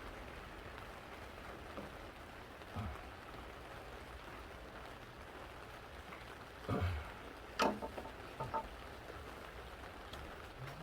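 A steady hiss, like light rain, with a few scattered metallic clinks and knocks from work on a forklift engine under repair, the loudest about seven and a half seconds in, ringing briefly.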